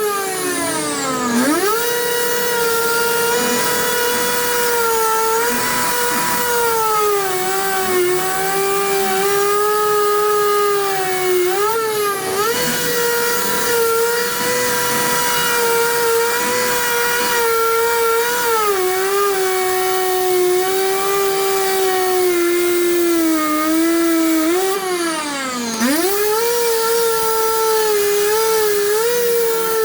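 Power cutting tool's motor whining steadily at high speed, its pitch sagging as it cuts and bogging down sharply about a second in and again near the end before winding back up.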